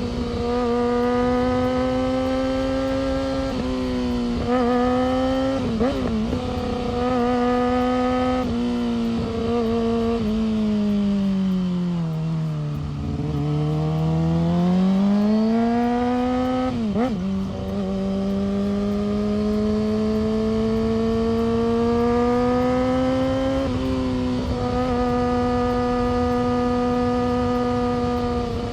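Yamaha R6's 600 cc inline-four engine running at steady high revs under way, its note briefly breaking several times. About ten seconds in the revs fall away to a low point, then climb back up as it speeds up again.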